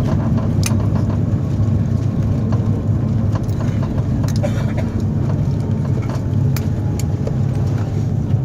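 Airbus A330 cabin noise while the airliner rolls on the ground after touchdown: a steady, loud low rumble from the engines and wheels, with occasional light clicks and rattles from the cabin fittings.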